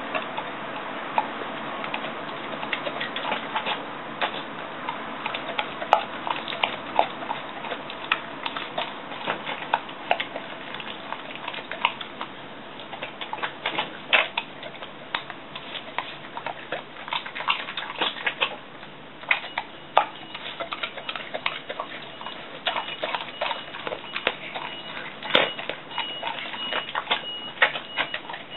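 A pet eating a soft rice meal from a dish: a long run of irregular clicks and smacks of chewing, licking and the dish, coming several times a second.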